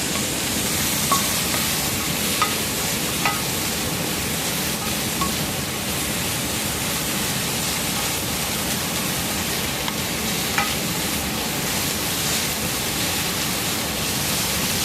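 Chopped onions sizzling and frying steadily in hot oil in a fry pan, browning, with a few light clinks of a utensil against the pan as they are stirred.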